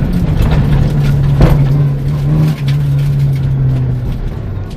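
VW Polo 1.4 rally car's four-cylinder engine heard from inside the cabin, pulling hard on a stage with its note held steady, then dropping lower near the end as the driver eases off. A single sharp knock about a second and a half in.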